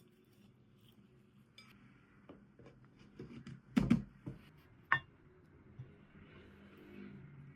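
Kitchen dishes and utensils knocked and clinked during food preparation: a few light taps, a louder double knock about four seconds in and a sharp clink about a second later.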